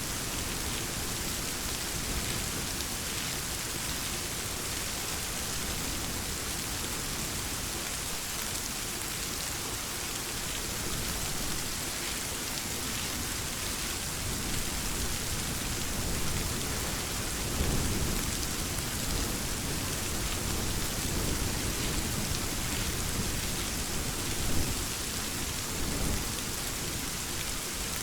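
Steady rain falling, with low thunder rumbling about halfway through.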